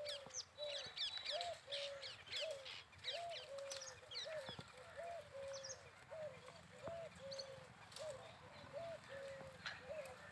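Birds calling: a low two-part call repeats steadily about once a second, with many small birds chirping high over it, busiest in the first three seconds.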